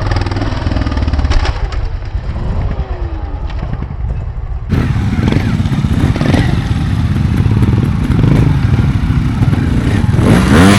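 Trials motorcycle engine running and blipping its throttle, with knocks and clatter from the bike working over obstacles.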